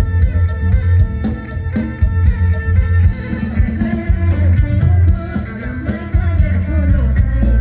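Band music with guitar, bass and a drum kit keeping a steady beat.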